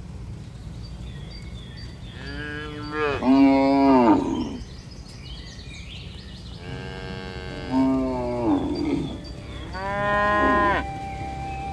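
Cattle mooing: several long, loud moos from the herd, each dropping in pitch at its end, over a steady low rumble.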